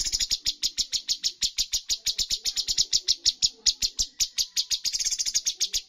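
Cucak cungkok songbird singing a long rapid-fire run of sharp, even notes, about ten a second, that stops just before the end.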